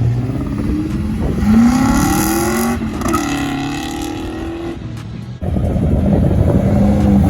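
Car engines accelerating hard past the microphone, the pitch climbing through the revs, with a shift about three seconds in, then another car's engine coming up near the end.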